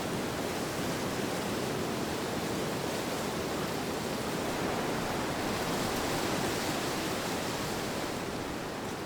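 Steady rushing wind, a soft even whoosh that swells a little past the middle and eases slightly near the end.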